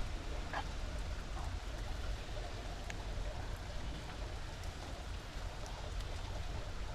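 Steady rain with a few scattered drips and clicks, over a low rumble.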